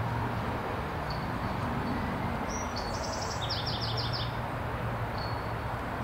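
A songbird sings a short trill of quick repeated notes around the middle, with a few faint single chirps before and after, over a steady background noise with a low hum.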